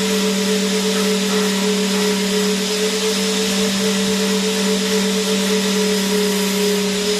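Vacuum cleaner running steadily: an even, unchanging motor hum and hiss of rushing air.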